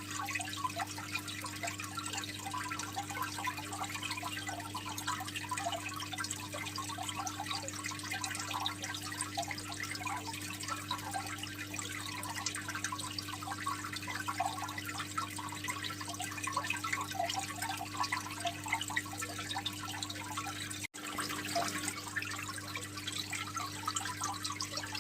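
Aquarium water trickling and bubbling steadily, over a steady low hum. The sound drops out for an instant about 21 seconds in.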